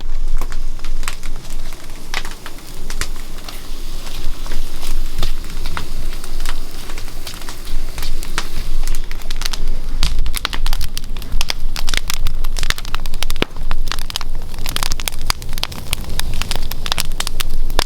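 Wood fire crackling and popping, with dense irregular snaps throughout and a low rumble underneath at times.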